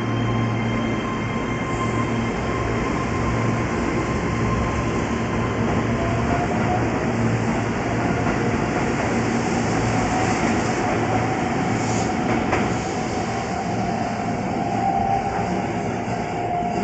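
Keihan 13000 series electric train departing, with a steady rumble of wheels on rail and a low hum. A faint whine begins about six seconds in and slowly rises in pitch.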